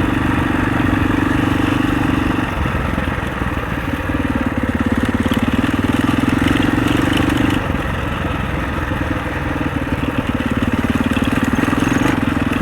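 Husaberg 650 enduro dirt bike's four-stroke engine running on a trail ride, pulling hard three times under throttle with easier running between the pulls.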